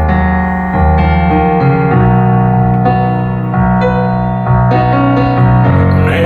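Keyboard playing held chords in an instrumental break of a live song, the chords changing about once a second.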